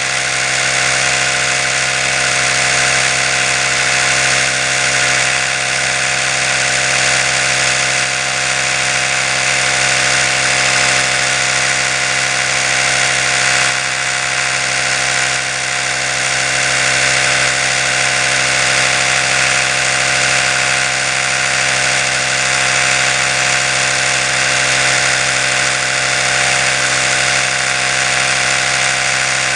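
Oral-B electric toothbrush motor running continuously: a steady, unchanging hum with a hiss over it.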